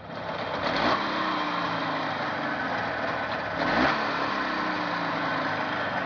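Jawa 638 two-stroke twin motorcycle engine running on a test run, blipped up in revs twice (about a second in and again about four seconds in) and dropping back to idle between.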